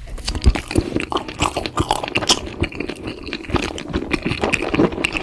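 Close-miked mukbang chewing and biting into food, a dense run of irregular loud crunches and mouth clicks.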